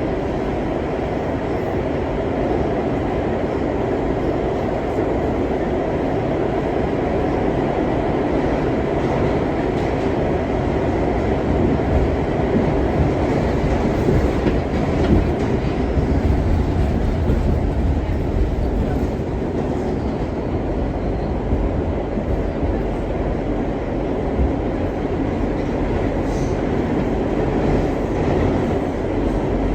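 R62 New York subway train running along the track: a steady noise of wheels on rail and car running gear, with the low end swelling a little partway through.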